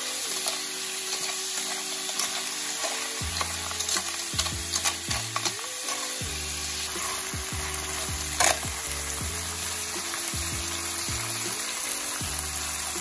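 Snails in their shells stir-frying with masala paste in an aluminium pan: a steady oil sizzle with the clicking rattle of shells as a spatula turns them, and one sharper click about eight seconds in.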